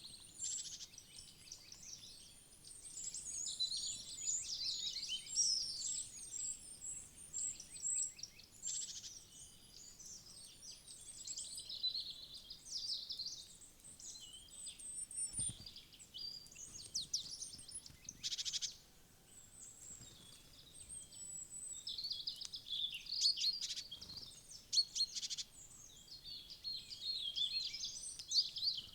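Small forest songbirds chirping and calling at a feeder: many short, high chirps and trills overlapping in bouts, with a brief knock or two about halfway through.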